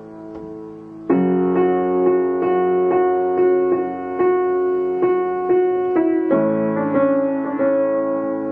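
Instrumental piano music: held chords with notes struck again roughly every half second, swelling louder about a second in and changing chord again near six seconds.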